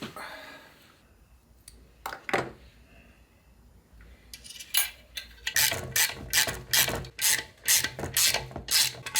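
Ratchet wrench working in quick back-and-forth strokes, about two to three clicks of strokes a second, starting about halfway through after a few scattered tool clicks.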